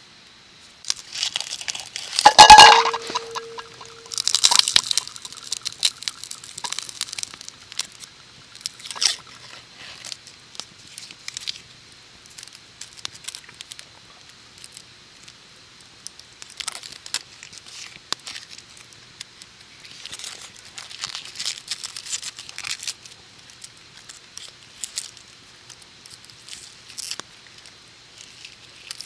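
Camp gear being handled: a sharp knock with a short ringing tone about two and a half seconds in, then scattered clicks and knocks and several stretches of crinkly rustling like packaging being crumpled or torn.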